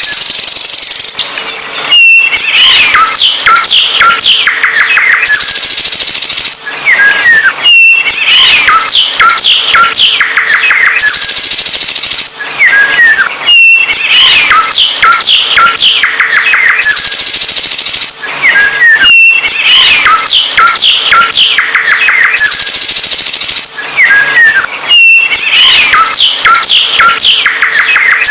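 A songbird singing loudly and without pause: rapid chirps, trills and short whistles, the same song sequence repeating about every six seconds like a looped recording.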